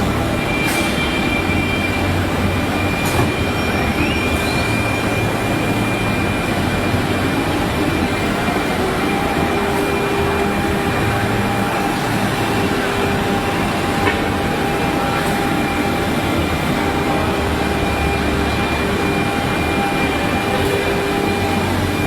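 ATC CNC router running, a steady high whine from its spindle over continuous machine noise, with a faint rising tone a few seconds in.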